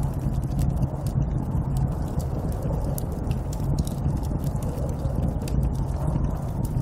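Steady snowstorm wind with a deep low rumble, overlaid by frequent irregular sharp crackles.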